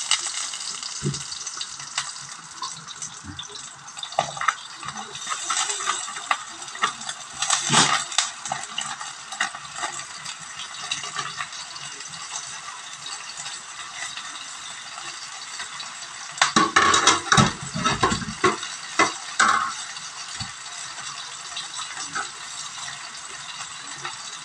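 Onion, garlic and pieces of leftover lechon chicken sizzling in oil in a wok, with a cooking utensil stirring and knocking against the pan. A run of louder knocks comes about seventeen seconds in.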